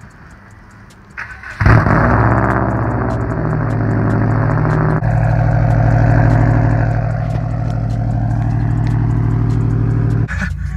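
Straight-piped Subaru WRX turbocharged flat-four on a cold start: the starter cranks briefly, and the engine catches about a second and a half in. It then runs loud at a fast cold idle, with the note changing about five seconds in and dropping near the end.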